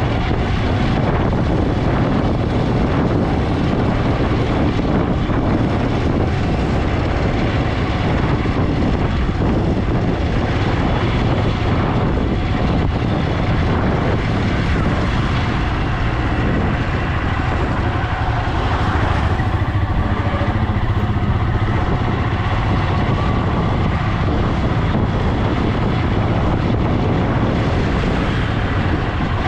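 Motorcycle running steadily at cruising speed, its engine drone mixed with road and rushing-air noise.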